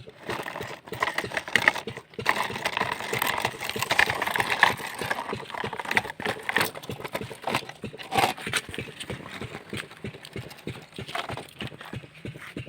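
Toys clattering: a continuous run of rapid clicks and knocks, with a few louder knocks.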